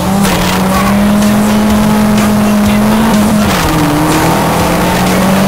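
Turbocharged Fiat Uno drag car's engine held at steady high revs, its pitch dropping a little about three seconds in and holding there.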